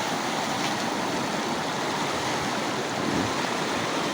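A steady, even rush of water.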